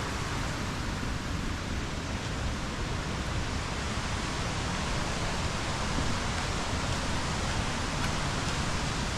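Steady rushing of a waterfall in full flow after the wet season, an even, unbroken noise of falling water.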